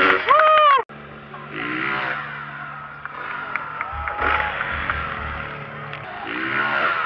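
Motocross bike engines running and revving under crowd noise. A louder passage breaks off with a sudden cut about a second in.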